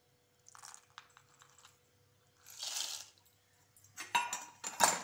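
Dried turkey berries (sundakkai vathal) rattling in a steel cup and tipped into hot sesame oil in an aluminium kadai. There is a short hiss about two and a half seconds in, then crackling and sharp clinks near the end as the berries start to fry.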